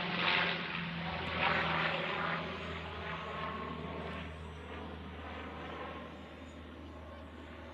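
Saab 340 twin-turboprop airliner flying by, its two GE CT7 turboprop engines and propellers making a steady low drone that fades steadily as it moves away.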